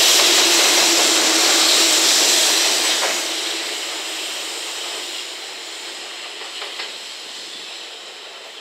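A JR Freight EF210-301 electric locomotive, banking at the rear of a 21-car container freight train, passing close by. Its loud rolling noise fades steadily from about three seconds in as the train moves away.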